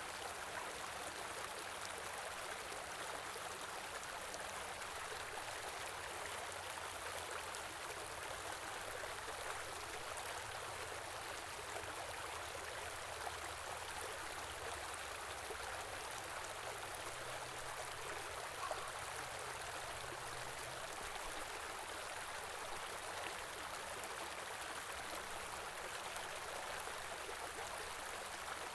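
A stream running steadily: an even, continuous rush of flowing water.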